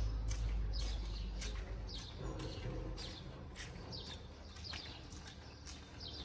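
Small birds chirping over and over, about two to three short high chirps a second. A low rumble under them fades away over the first couple of seconds.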